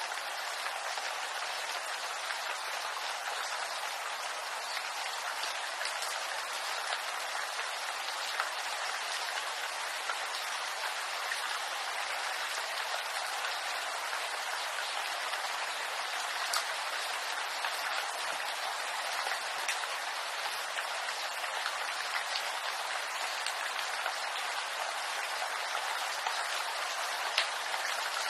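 Steady rain pattering on bamboo foliage: an even hiss with many small scattered drop ticks.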